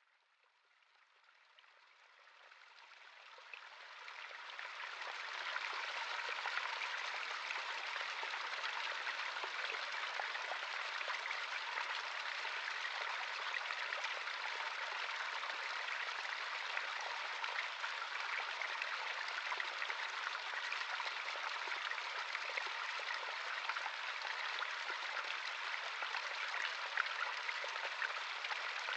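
Natural stream running over rocks: a steady burble and splash of flowing water, fading in over the first five seconds or so.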